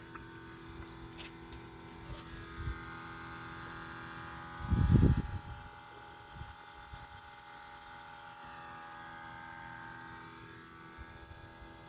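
A whining noise from a 2021 Subaru Crosstrek, several high tones held steady, strongest from about two seconds in until near the end, over a low hum. A loud low rumble comes about five seconds in.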